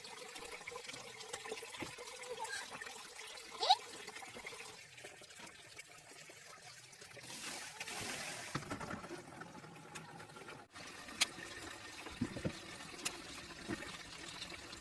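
Water trickling and splashing, with scattered small knocks and clicks.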